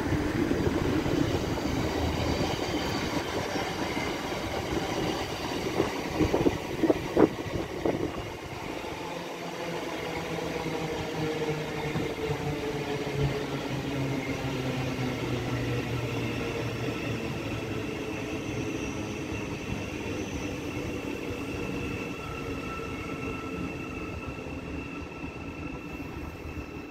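A train running past on the line, with a few sharp knocks about a quarter of the way in, followed by a motor whine whose pitch slowly shifts and rises toward the end.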